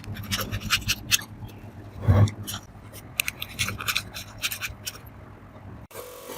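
Quick, uneven scraping strokes on the old meat grinder's parts, as burnt residue is worked off by hand, with a dull knock about two seconds in. Near the end it changes abruptly to a steady hiss.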